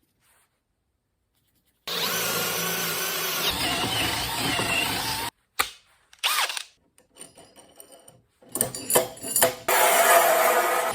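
Power tools working lumber, in several short pieces cut one after another: a steady run of a few seconds, a brief whine, some clicks, then another steady run near the end. The first two seconds are silent.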